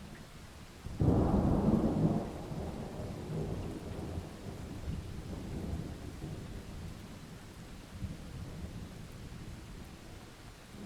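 Thunderstorm: a thunderclap breaks suddenly about a second in, then rumbles away over several seconds, over a steady wash of rain.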